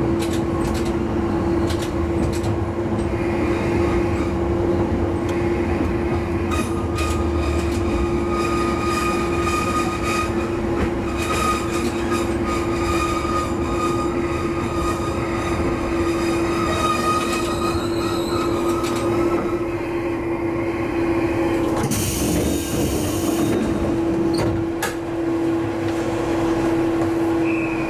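Diesel railcar of the Minato Line running on the track, its engine and drive giving a steady hum over a low rumble, with clicks from the wheels over the rails. A brief high hiss comes about 22 seconds in.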